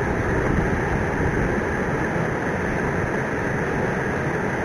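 Steady rushing of a swollen, flooding river flowing past.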